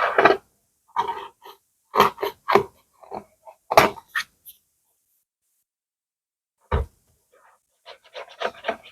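Close-miked ASMR hand sounds: a run of short taps and crinkles, then a pause of about two seconds and a single heavier knock, followed near the end by a quick flurry of small clicks.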